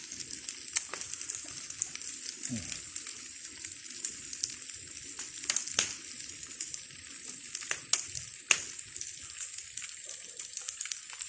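Bonfire of wood and palm leaves burning with a steady hiss and sharp crackles and pops scattered through.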